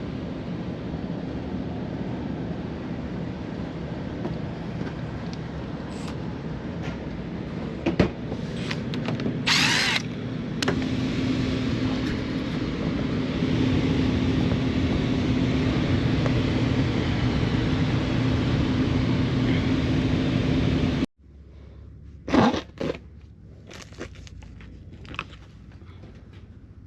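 Commercial HVAC unit running: a steady mechanical hum of the compressor and fan with a low, even drone, with a click and a brief hiss about ten seconds in. A little over twenty seconds in, the hum cuts off abruptly, leaving a much quieter background with a few knocks.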